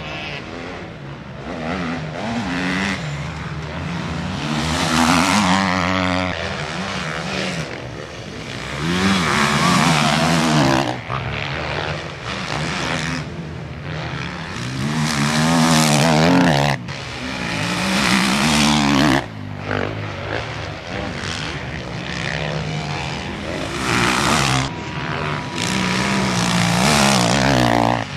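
Motocross bikes racing past, their engines revving up and down through the gears, growing loud as each rider goes by, several times in a row.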